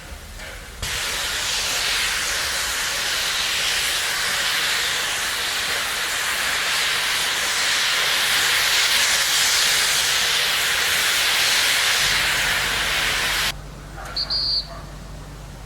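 FS class 940 steam locomotive 940.041 releasing steam in a loud, steady hiss. The hiss starts abruptly about a second in and cuts off suddenly near the end.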